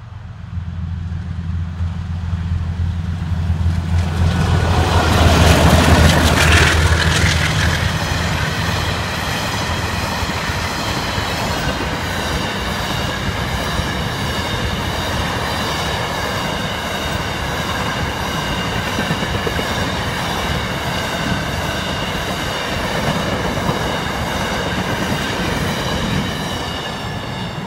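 Two GE diesel-electric locomotives hauling a coal train pass close by, their engines loudest about six seconds in. A long string of empty coal hopper wagons then rolls past with steady wheel-on-rail noise and a high, steady squeal from the wheels.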